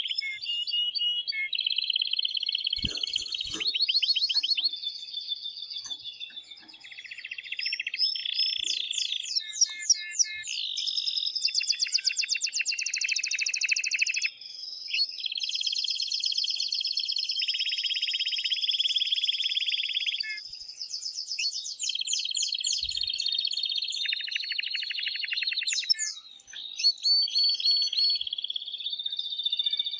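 Male canary singing an excited, continuous song of fast trills and rolls, each run of rapidly repeated notes giving way to a new one every second or two, with a short lull near the end.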